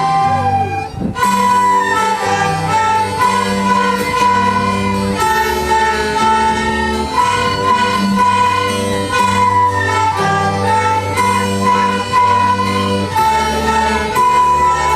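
Schoolchildren's instrumental ensemble playing a simple children's tune: a steady melody over a repeating bass accompaniment, with a brief break about a second in.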